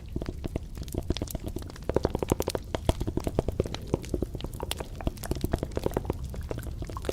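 Close-miked ASMR trigger sounds: a fast, irregular run of small clicks and crackles over a low rumble, as from tapping or scratching right at the microphone.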